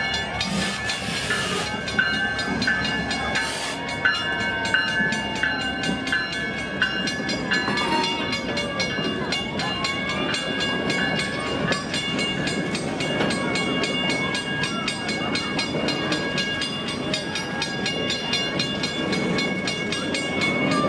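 A decorated freight train rolls slowly past a level crossing, its cars clacking and rumbling, while the crossing-signal bell rings steadily throughout. Two short hisses come early on.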